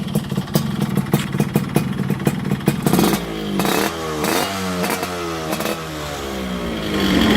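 Yamaha RXZ 135 two-stroke single-cylinder engine running through an HNR racing exhaust. It idles with a regular ticking rattle, then is revved in a string of quick throttle blips, each rising and falling in pitch, and settles back to idle near the end.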